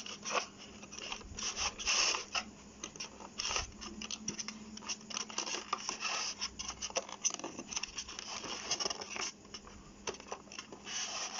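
Packaging being handled as the tie holding a toy helicopter in its box is undone: irregular scraping, scratching and crackling. A faint steady hum runs underneath.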